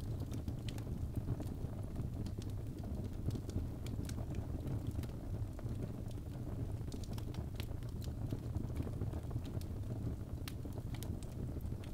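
Birch logs burning in a fireplace: a steady low rumble of flame with frequent, irregular sharp crackles and pops.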